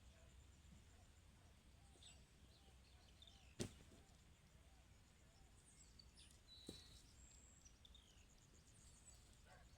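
Faint birds chirping and calling over a low rural background, with one sharp knock about three and a half seconds in and a lighter one near seven seconds.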